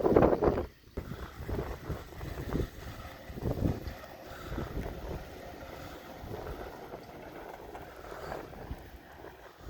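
Gusty wind buffeting the microphone in a snowstorm: a loud rumbling gust at the start that cuts off suddenly just under a second in, then a steadier, quieter wind rush with irregular scuffs.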